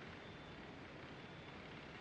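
Faint, steady in-flight cockpit noise of a Zenith 750 STOL light aircraft, its Lycoming O-235 engine running evenly in the approach circuit.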